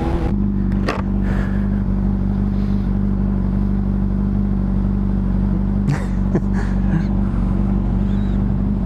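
Honda CBR600RR inline-four engine idling steadily while the bike sits stopped, picked up by a mic inside the rider's helmet. A few sharp clicks sound over it about a second in and again around six to seven seconds in.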